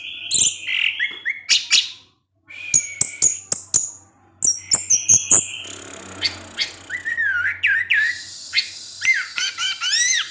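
Orange-headed thrush singing a rambling 'teler' song: a fast, varied run of sharp whistled notes, rising and falling glides and clicking notes, broken by a brief pause about two seconds in.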